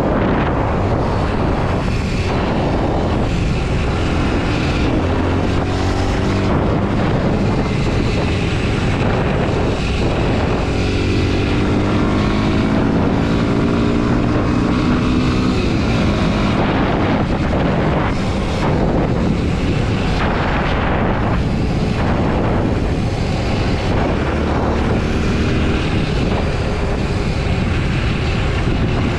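Kawasaki KLX 230 SM's air-cooled single-cylinder four-stroke engine under way, the revs rising again and again as it pulls through the gears and dropping at each shift, with wind rushing over the microphone.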